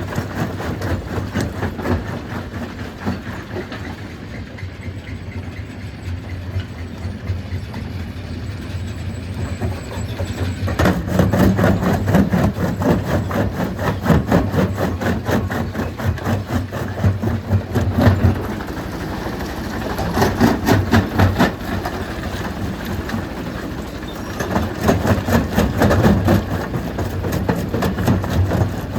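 Stone crusher running, a steady low machine hum under a rapid, dense rattle of knocking from the rock being broken. It grows louder for several seconds from about a third of the way in, and again in shorter spells later on.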